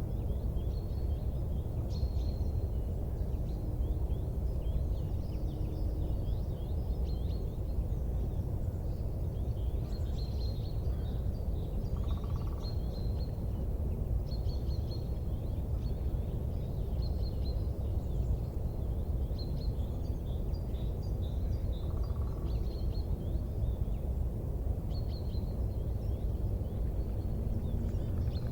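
Small birds chirping and twittering again and again over a steady low rumbling noise, with two short lower calls, one about halfway through and one a little later.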